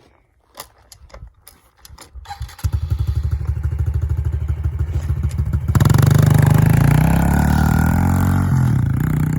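A small single-cylinder motorbike engine starts after a few faint clicks about two and a half seconds in, running with an even pulse, then is revved hard from about six seconds in, its pitch rising and falling. It is being tried to see whether it still runs after a crash.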